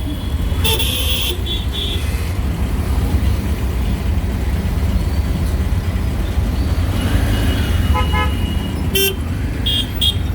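Auto-rickshaw engine running with a steady low rumble while riding through traffic, with vehicle horns tooting several times in short beeps.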